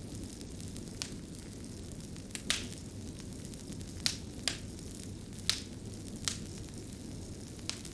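An open fire crackling: a steady low rush of burning with about eight sharp pops and snaps scattered irregularly through it, two close together about two and a half seconds in.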